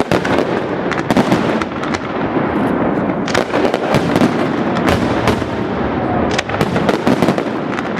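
Fireworks display firing a dense, continuous barrage: many sharp bangs and cracks in quick succession over a steady roar of bursting shells.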